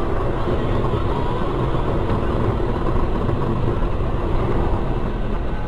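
Steady engine and road noise from a car driving along, with no impact or crash sound.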